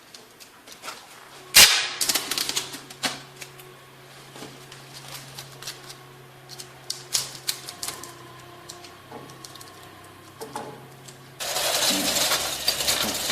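Clicking and knocking of hand work while fitting ceramic stove tiles: one sharp knock about a second and a half in, then scattered light taps and clicks. Near the end a steady rushing noise starts.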